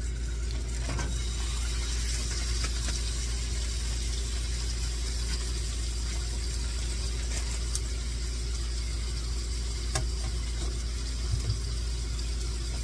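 Seasoned chicken frying in olive oil in a pan: a steady sizzle, with a few light clicks and a constant low hum underneath.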